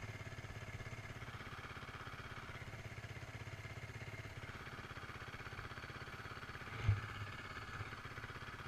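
Motorcycle engine idling steadily, with a single knock about seven seconds in.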